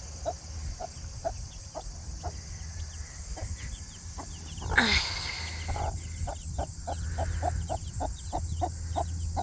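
Broody mother hen clucking in a steady rhythm, about two clucks a second, with faint high peeping from her newly hatched chicks. One louder, sudden sound with a falling pitch breaks in about five seconds in.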